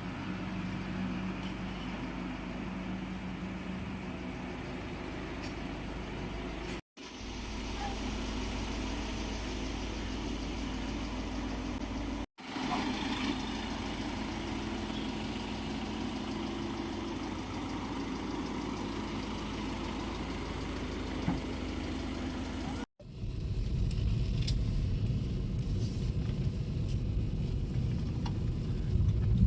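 Steady engine and road noise of a car being driven, in several stretches joined by sudden cuts. The last stretch has a stronger low rumble.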